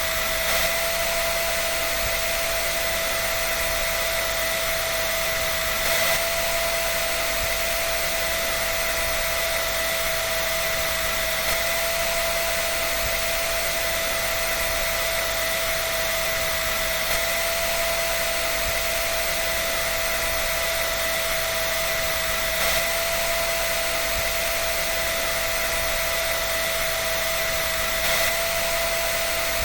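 Hair dryer running steadily: a constant rush of blown air with a steady motor whine, swelling slightly about every five and a half seconds.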